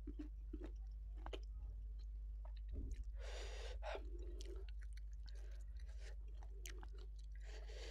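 Close-miked chewing of a mouthful of rice with salted fish and sambal, eaten by hand, with many small wet mouth clicks.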